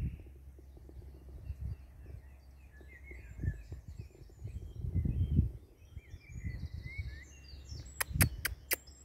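Small birds singing, short chirps and warbled phrases repeating, with low rumbles of handling or wind noise on the phone's microphone. A quick run of sharp clicks comes near the end.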